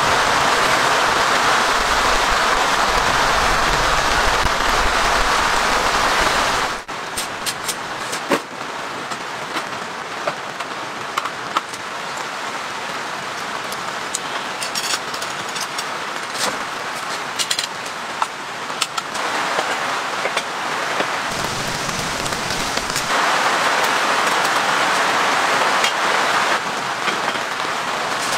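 Steady heavy rain; about seven seconds in it changes abruptly to a quieter rain sound. Scattered light clicks and taps from a folding camp table being unfolded and set up run through the quieter part.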